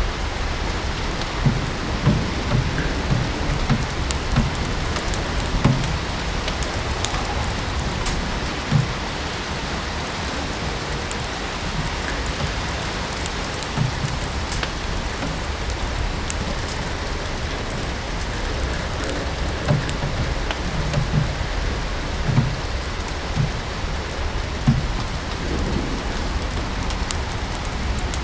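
Steady rain falling, mixed with a wood fire crackling in a fireplace: scattered sharp pops and snaps over an even hiss, with occasional soft low knocks.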